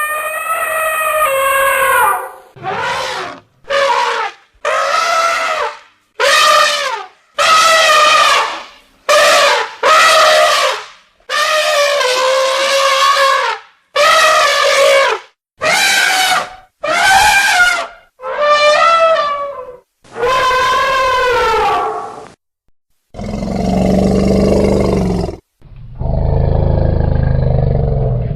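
Elephants trumpeting: about fifteen separate high calls in quick succession, each half a second to two seconds long. Near the end come two longer, lower rumbling roars.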